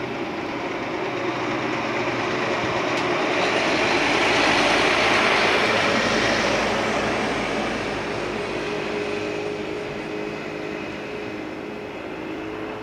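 Train noise: a broad rumble and hiss that swells to a peak about five seconds in and then fades, with a steady hum coming in during the second half.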